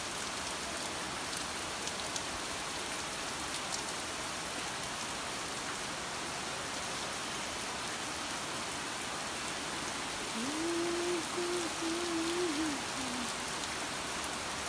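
Heavy rain pouring steadily onto leaves and a tiled roof, an even hiss of drops throughout. About ten seconds in, a single held tone sounds over the rain for about three seconds.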